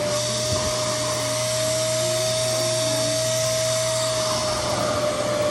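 Revair reverse-air hair dryer running, its motor giving a steady rush of suction with a clear whine. The whine rises slightly after about a second and settles back down near the end.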